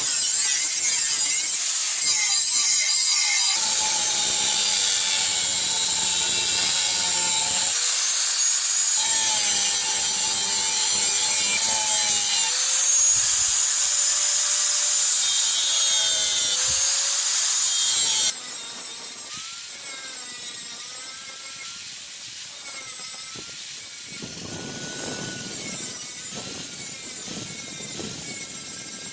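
An electric grinder grinding steel: a steady hiss with a motor whine that wavers in pitch as the load changes. The sound shifts abruptly about eighteen seconds in and goes on a little quieter.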